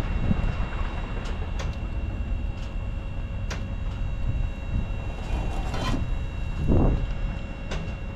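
A truck's engine runs with a steady low rumble while something knocks and rattles sharply now and then, as the truck moves over rough ground.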